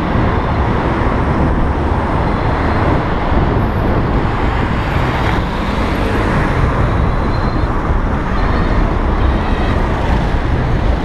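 Wind rushing over the microphone of a moving electric bicycle, with road traffic noise around it. Faint high tones come and go in the second half.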